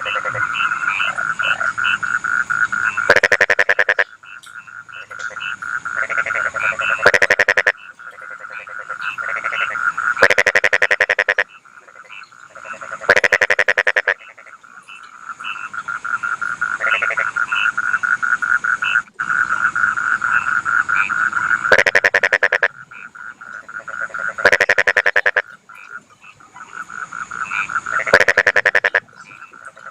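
A chorus of rice-field frogs calling. A steady, rapidly pulsed trill runs underneath, broken by seven loud, rapid croaking bursts, each about a second long and spaced a few seconds apart.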